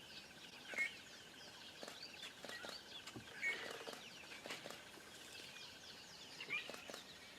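A flock of small birds chirping and calling over a steady high trill, with a few louder calls standing out about a second in, around the middle, and near the end.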